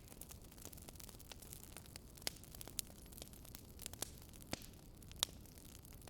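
Wood fire crackling: a steady soft hiss with irregular small snaps and a few sharper pops from the burning logs.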